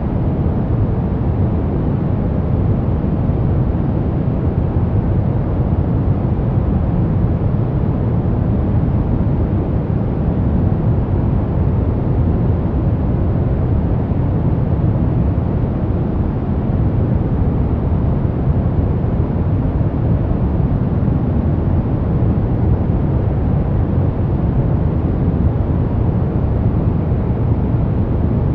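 Steady, unchanging noise of a sleep-sound track billed as white noise: an even rush, deep rather than hissy, with most of its weight low and little at the top.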